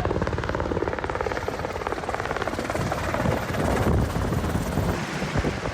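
Helicopter landing, its rotor blades chopping in a rapid, steady beat with a rush of noise; the sound thins about five seconds in.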